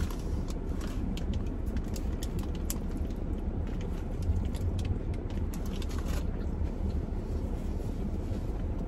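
A person chewing close to the microphone, with many small wet mouth clicks, thickest in the first six seconds, over a steady low rumble.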